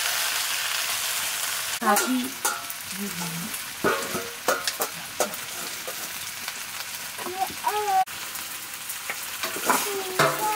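Chopped greens sizzling in a black iron wok, with a steel ladle clacking and scraping against the pan as they are stirred. The sizzle is steady at first; the sharp clacks of the ladle come in a cluster from about two seconds in and again near the end.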